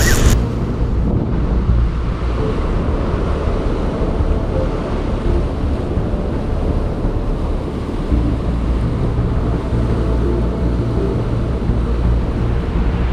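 Steady wind buffeting the microphone as a low rumble, with ocean surf behind it.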